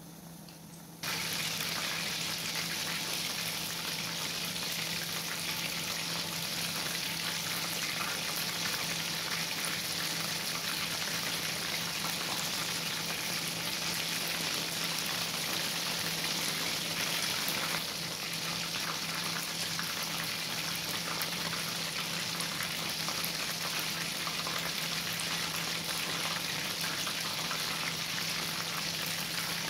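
Chicken wings deep-frying in a pan of hot oil: a dense, steady sizzle and crackle that comes in suddenly about a second in, with a steady low hum underneath.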